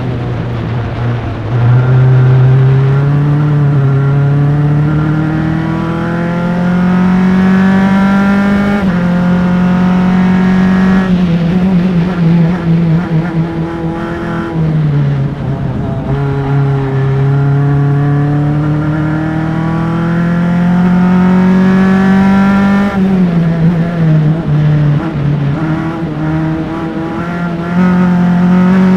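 Single-seater Formula Enterprises race car's engine at racing speed, heard close from engine-mounted mics: revs climbing hard through the gears with sharp upshifts about nine and eleven seconds in, falling off and climbing again mid-way, then dropping with quick throttle blips on downshifts for a corner around the three-quarter mark before pulling hard again.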